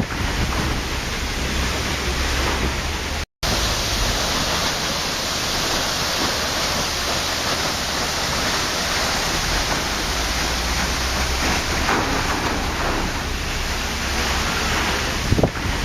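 Waterfall: falling water making a steady, dense rush. A split-second gap of silence breaks it about three seconds in.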